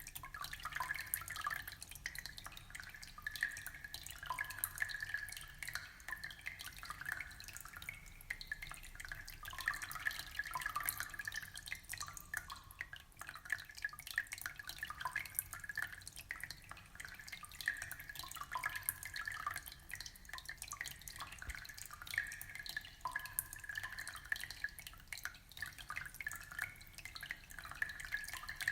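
Aquarium water trickling and bubbling: a steady stream of small drips and splashes with no let-up.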